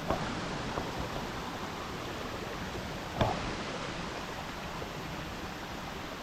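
Large waterfall's falling water making a steady rushing roar, with two brief knocks, one right at the start and one about three seconds in.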